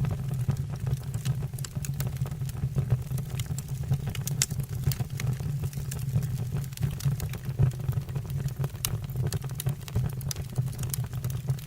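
Wood fire burning in a fireplace: a steady low rumble with frequent sharp crackles and pops from the burning logs.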